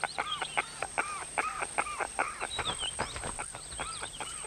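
Rapid series of short bird calls, each rising and then falling in pitch, repeated about four to five times a second.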